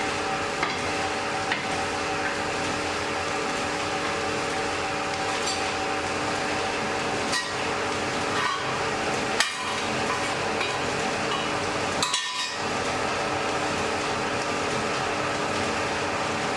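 Blacksmith's forge fire with a steady rushing hum, over which come scattered sharp metallic clinks and knocks of tools and iron: a few light ones at first, a louder one about halfway through, and a short cluster a little later.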